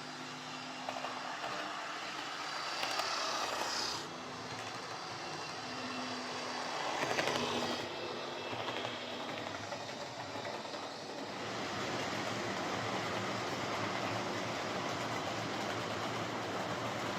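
Lima OO gauge model Class 55 Deltic locomotive running on the track: a steady motor whirr and the rattle of wheels on rail. It swells twice in the first half, as it passes close, then runs on steadily.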